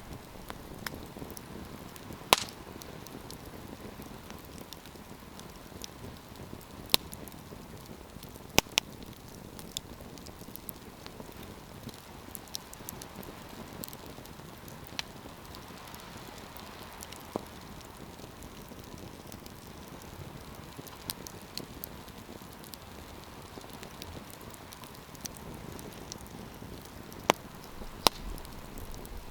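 Wood campfire burning with a steady hiss, broken by sharp pops and crackles scattered irregularly, a few of them much louder than the rest.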